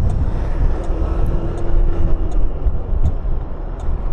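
A 125 cc motor scooter ridden along a road: a steady rumble of wind and road noise on the camera microphone, with the engine's hum rising faintly for a moment about a second in.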